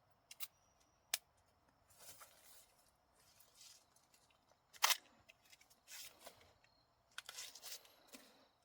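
Corn ears being handled and husked: dry husks and leaves rustling and tearing in short spells, with a few sharp snaps, the loudest about five seconds in.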